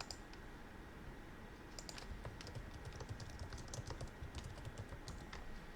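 Typing on a computer keyboard: a quick run of light key clicks, starting about two seconds in and stopping shortly before the end.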